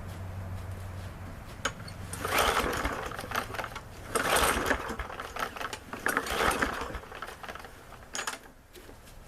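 MTD push mower's recoil starter pulled three times, each pull a short burst of the engine cranking over without catching. The owner thinks the carburetor may have too little gas left in it to fire.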